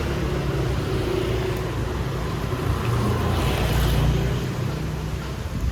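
Street traffic: a vehicle engine's low rumble close by, with a hiss that swells about three and a half seconds in.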